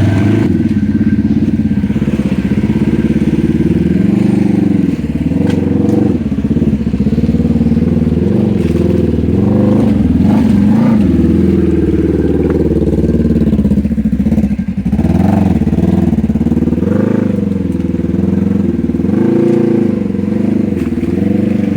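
Off-road vehicle engine running while driving on a trail, its revs rising and falling with the throttle.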